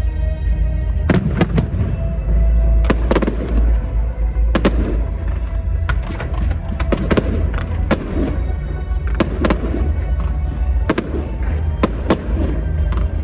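Aerial fireworks bursting in a rapid series of sharp bangs, often two close together, about every one to two seconds. Music plays throughout.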